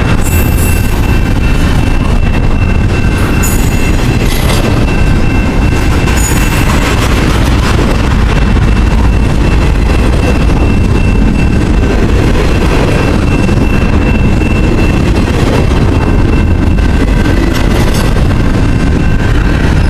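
Freight train passing close by: a steady, loud rumble of wheels on rail, with a thin steady high whine held above it.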